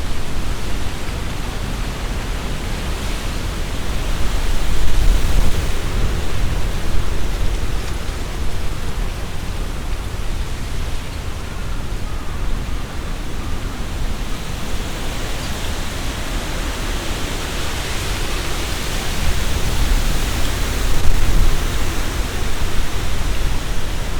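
Strong wind gusting through trees, leaves rustling, with low rumbling wind buffeting on the binaural microphone. The gusts swell about five seconds in and again near the end.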